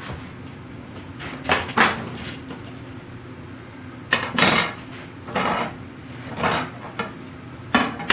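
Hard objects being handled and knocked on a workbench: about six short clattering knocks, spaced roughly a second apart. The loudest come about four seconds in and near the end.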